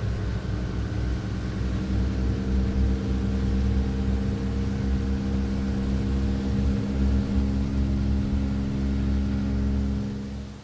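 Tugboat engine running steadily: a low, even drone holding one pitch, dropping away sharply near the end.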